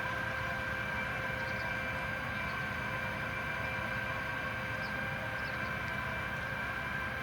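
Tractor and Standen T3 three-row trailed potato harvester running steadily while lifting potatoes: a constant low rumble with a steady high mechanical whine over it.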